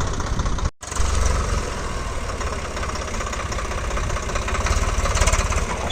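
Tractor diesel engine running with an even, low chugging pulse. The sound cuts out for a moment under a second in, then comes back louder.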